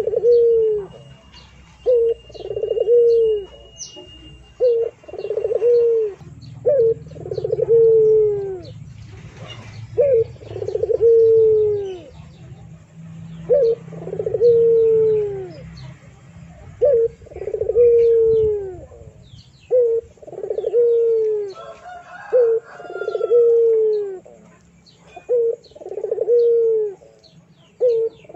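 A bird's low cooing call repeated about every two to three seconds, each a short note followed by a longer falling one, with faint chirps of other small birds.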